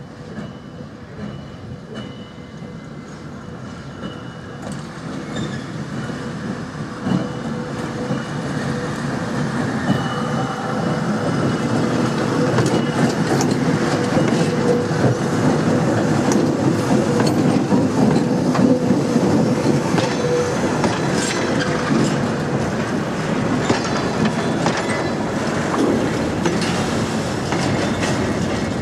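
A ČKD-built T669 diesel-electric locomotive approaches and passes close by with its diesel engine running, growing louder over the first ten seconds or so. A long string of tank wagons then rolls past, its wheels clicking over the rail joints and squealing.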